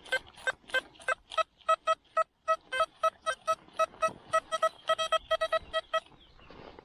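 Metal detector beeping on a target: a rapid run of short, identical electronic tones, about four a second, coming faster near the end and stopping about six seconds in.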